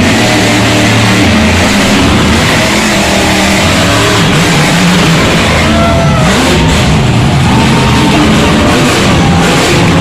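Loud rock music with electric guitar, with a monster truck's engine running underneath.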